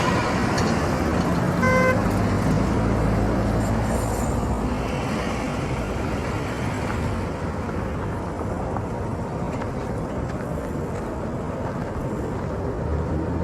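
Street traffic: motor vehicles running past with a steady engine drone, and one short vehicle horn toot about two seconds in.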